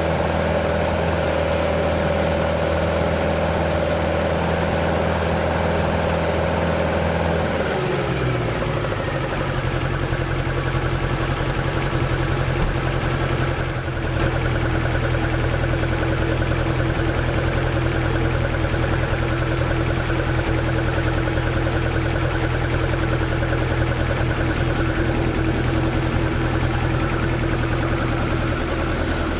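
Toyota AE86's swapped-in AE101 20-valve 4A-GE engine idling. About eight seconds in its speed falls over about a second, then it settles at a lower, steady idle.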